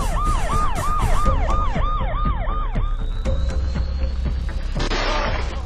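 Emergency vehicle siren in a fast yelp, rising and falling about three times a second over a low steady rumble, stopping about three seconds in.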